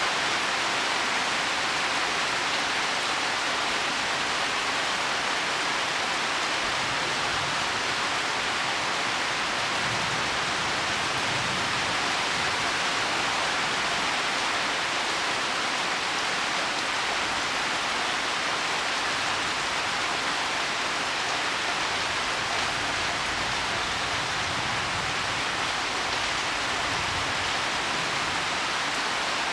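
Heavy rain falling steadily on leaves and soil, an even hiss of drops.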